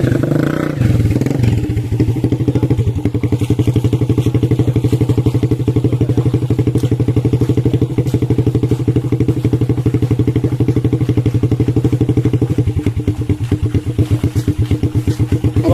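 Motorcycle engine on a palm-fruit hauling bike settling after the first second or two into a steady idle with an even, fast pulsing beat.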